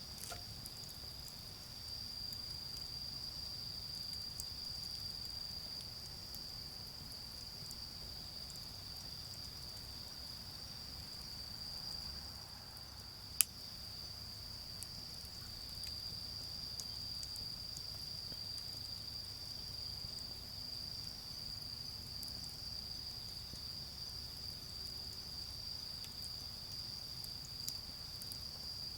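Autumn crickets chirping in one steady, continuous high-pitched trill. Now and then a charcoal fire crackles faintly, with one sharp pop about thirteen seconds in.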